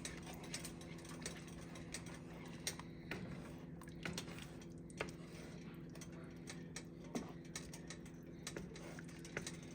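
A spoon stirring thick curry in a pot, knocking and scraping against the pot's sides in irregular light clicks, over a steady low hum.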